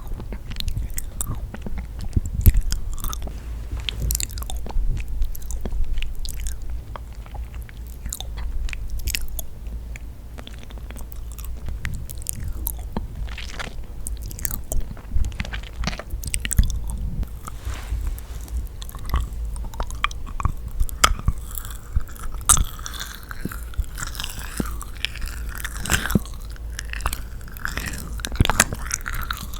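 Close-miked chewing and biting of yakgwa, a sticky honey-soaked Korean fried cookie, with many small sharp sticky clicks and smacks. The mouth sounds grow busier in the last several seconds.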